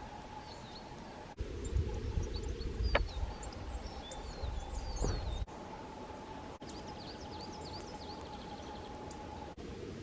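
Small songbirds chirping and calling, with short high chirps and a quick trill in the second half. For about four seconds starting just over a second in, a low rumble is the loudest sound, with two sharp clicks in it.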